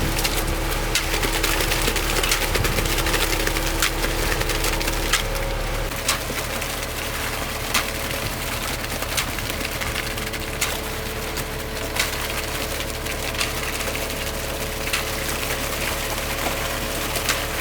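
An engine running steadily, its low hum shifting about six seconds in, with sharp knocks and clicks of work roughly once a second.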